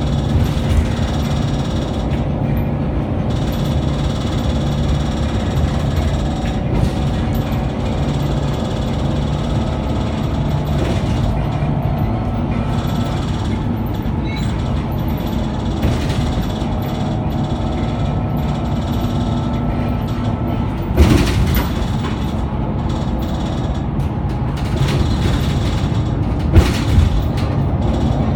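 Scania K94UB bus engine and drivetrain heard from on board, running steadily under way with a low, even drone. There are sharp knocks about 21 seconds in and again near 26 to 27 seconds.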